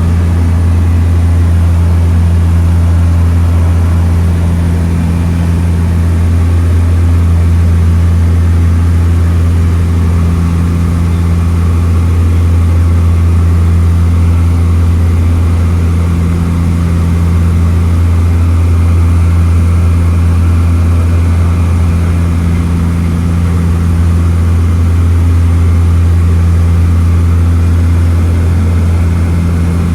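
Seaplane engines and propellers droning steadily in flight: a loud, even low hum that does not change.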